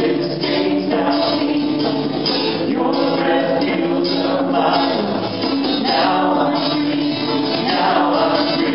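A live worship song: male and female voices singing together, accompanied by acoustic guitar and band.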